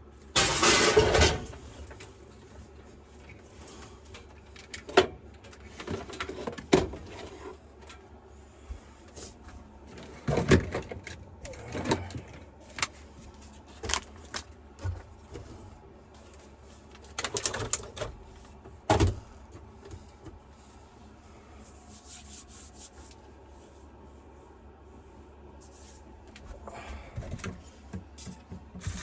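Gear being handled and packed up: rustling and a series of sharp knocks and bumps, the longest rustle about a second in, over a steady low hum.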